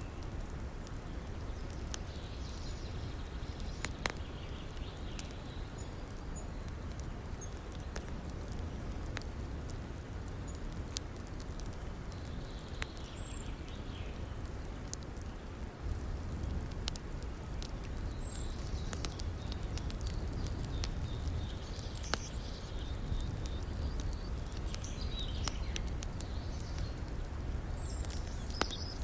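Wood fire crackling with scattered sharp pops over a steady low rush of river water, with small birds chirping now and then.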